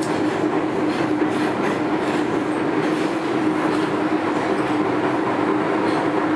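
MTR M-Train electric multiple unit running at speed, heard from inside the carriage: a steady rumble of wheels on rail with a constant low hum and faint clicks from the track.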